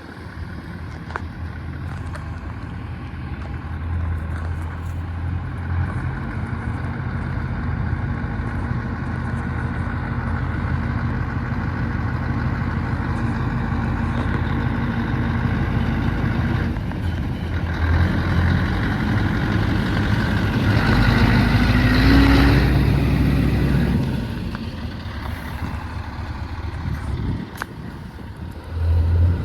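Scania truck with an open, straight-piped exhaust, its low engine drone building as it approaches. The engine note rises briefly and is loudest about 22 seconds in, then falls away quickly as the truck passes.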